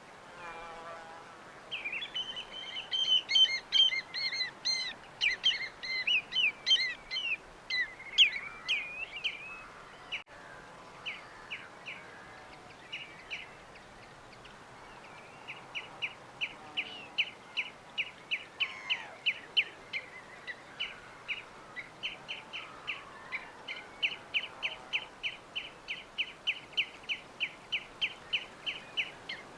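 Small birds chirping: several seconds of dense, overlapping chirps, then after a short lull a long run of quick, evenly repeated chirps, about two or three a second, over a steady background hiss.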